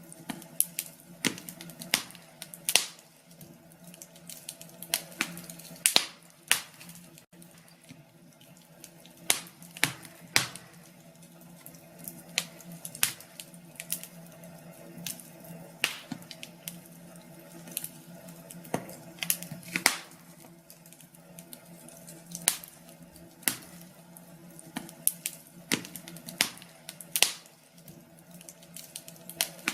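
Wood fire crackling in a fireplace: irregular sharp pops and snaps, sometimes several in a second, over a faint steady low hum.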